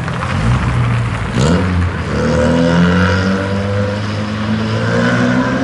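Engine of a historic rally car accelerating, its pitch climbing steadily from about two seconds in as it pulls away.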